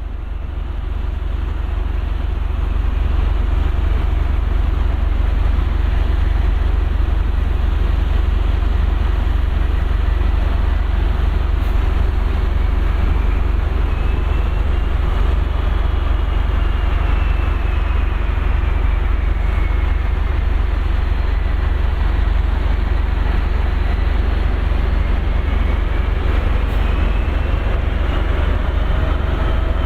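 Aircraft de-icing at a Boeing 757: a steady, loud heavy rumble with a rushing hiss, and a faint whine that slowly rises and falls.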